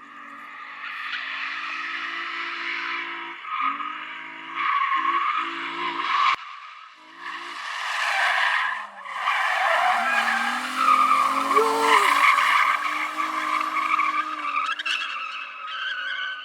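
A car drifting: its tires squeal continuously while the engine revs rise and fall, the squeal breaking off briefly a couple of times.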